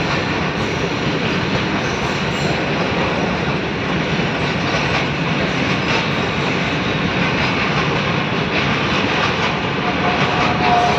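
A train running on its rails: a steady rumble of wheels and track noise. A short, faint high tone is heard near the end.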